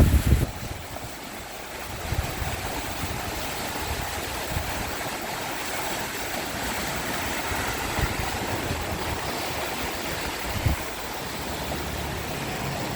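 Rain-swollen Manoa Stream rushing high after days of rain, a steady wash of running water with a few short low thumps.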